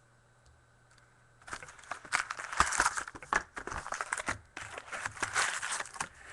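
A foil trading-card pack wrapper crinkling and tearing as it is opened by hand. The noises start about a second and a half in and go on as a quick, irregular run of crackles.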